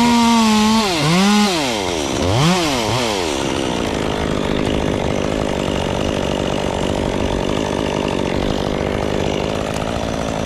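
Two-stroke chainsaw running at full throttle, then its revs dip and climb back a couple of times about a second in. By about four seconds in it settles to a rough, rattling idle.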